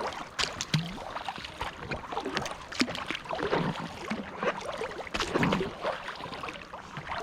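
Kayak paddling: the blades dip and pull through the water with irregular splashing and dripping.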